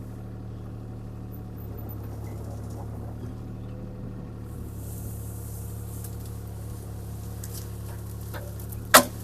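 CAT 303C CR mini excavator's diesel engine running steadily under work. A single sharp knock sounds near the end.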